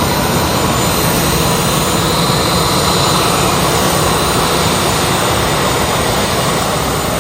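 Jet airliner engines running at idle while the aircraft waits on the ground, a steady loud rush of noise with a thin, steady high whine.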